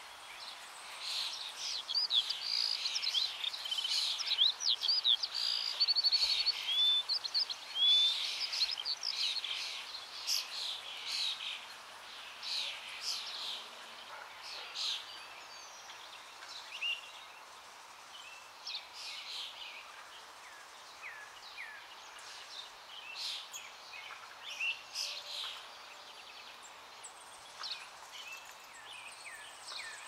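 A flock of babblers chattering: many short squeaky chirps and whistles, dense over the first ten seconds and then scattered, over a steady outdoor hiss.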